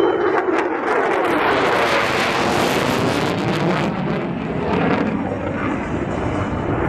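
F-35A Lightning II fighter's single Pratt & Whitney F135 jet engine running loud as the jet passes the crowd, a steady jet noise with a sweeping, shifting tone.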